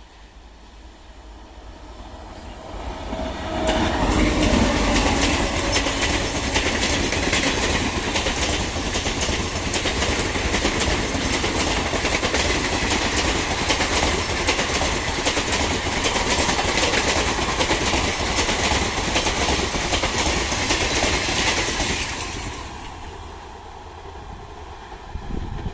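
A train passing at speed, its wheels clattering over the rail joints: it builds up over the first few seconds, stays loud for about eighteen seconds, then fades away near the end.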